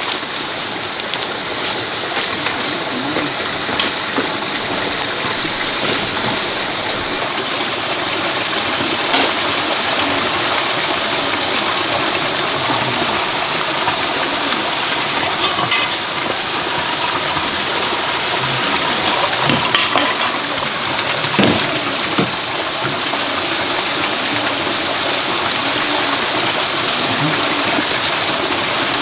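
Steady rushing of flowing water, with a few faint knocks.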